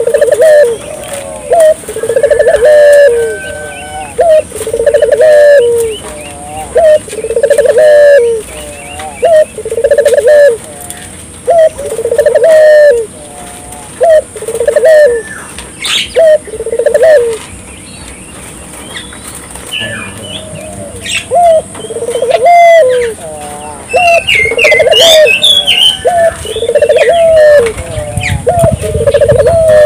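Burung puter (Barbary dove) cooing over and over in a steady rhythm, about one coo a second, with a pause of a few seconds midway. Thin, higher chirps from another bird come in near the end.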